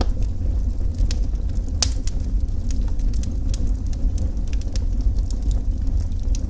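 Wood fire burning in a fireplace, with a steady low rumble and irregular sharp crackles and pops, one louder pop a little under two seconds in.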